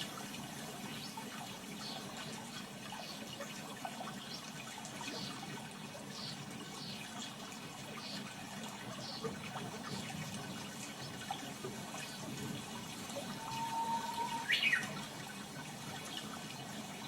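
Steady running water, with scattered short high chirps over it; near the end a held tone breaks into a quick, higher chirp.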